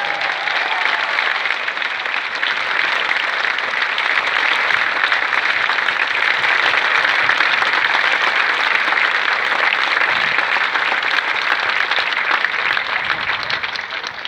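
Stadium crowd applauding a new champion, steady dense clapping that holds throughout and dies away near the end.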